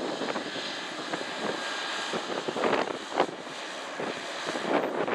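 Jet engine noise from an Airbus A321-211's CFM56 turbofans as the airliner runs up for its takeoff, a steady rushing sound. Gusts of wind buffet the microphone now and then.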